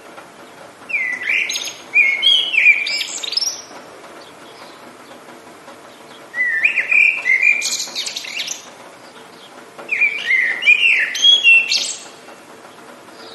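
A songbird singing three phrases of quick whistled and warbled notes, each about two to three seconds long with pauses between, over a faint steady hiss of rain.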